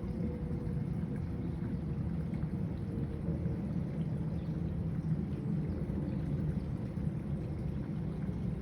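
Steady, low, fluctuating rumble of outdoor background noise, with no distinct events.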